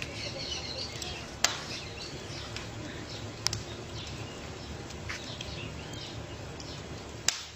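Campfire crackling, with many small clicks and three sharp pops, against a steady outdoor hiss and faint bird chirps.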